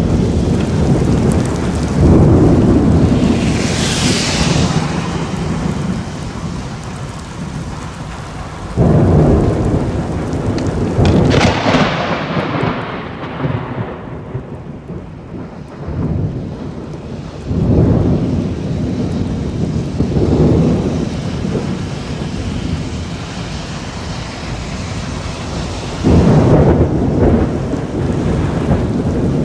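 Thunderstorm: rolls of thunder over steady rain. About six peals break in suddenly and rumble away, one a little before halfway starting with a sharp crack.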